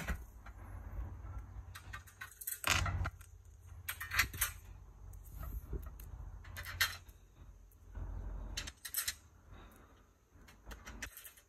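Metal frame parts of a car roof cargo basket being handled and fitted together: scattered clinks and knocks, a few of them louder, at irregular intervals.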